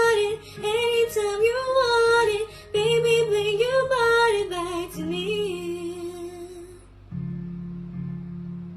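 A woman's voice singing a sliding, melismatic melody without clear words over acoustic guitar. The voice fades out about 7 seconds in, and the guitar carries on alone with a new chord.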